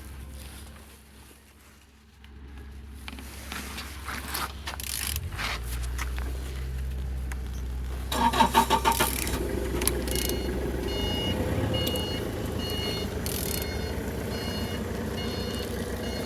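Z13DTH 1.3 diesel engine being turned over for a compression check, reported as turning well with all compressions present. A low steady hum sets in after a few seconds, with a pulsing surge about eight seconds in. From about ten seconds a run of short high beeps repeats roughly every half second.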